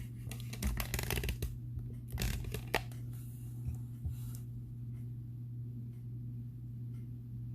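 Hands handling bead-working materials, rustling with many quick light clicks through the first three seconds, then a couple of single clicks. A steady low hum runs underneath.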